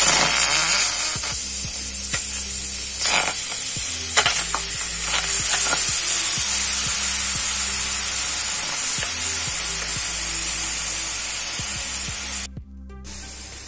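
Raw squid pieces dropped into a hot frying pan over a high flame, sizzling loudly, with sharp crackles and spits as handfuls land in the first few seconds. The sizzle cuts off suddenly near the end.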